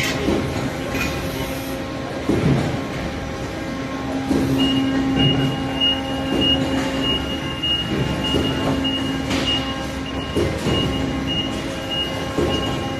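Forklift running with a steady mechanical hum and occasional knocks. About four and a half seconds in, a high pulsing beep comes in and keeps going.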